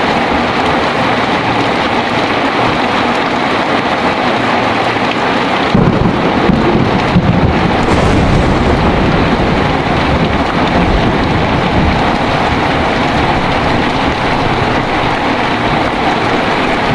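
Heavy rain falling steadily. About six seconds in, a deep rumble of thunder comes in and rolls on under the rain.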